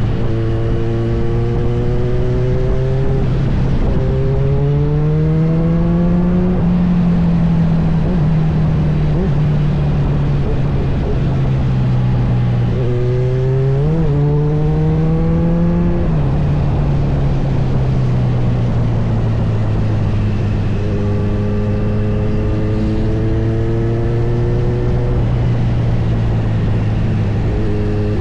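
Kawasaki Z900's inline-four engine running under way, its revs climbing and falling back several times through gear changes, over steady rushing wind noise.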